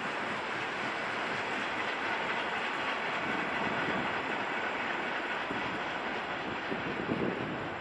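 Broad-gauge freight train rolling by out of view: a steady noise of wheels on rails, with a few knocks about seven seconds in.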